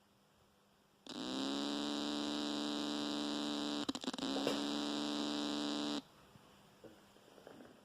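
Newly built JTM45-clone valve guitar amp buzzing loudly through its speaker with no cable plugged into the input, a fault its builder can't explain. The buzz comes on about a second in, rising slightly in pitch as it settles, falters with a few clicks around the middle, and cuts off suddenly.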